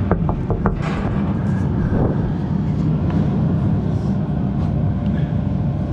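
Large JCB digger's diesel engine running steadily, with a few sharp metallic knocks in the first second.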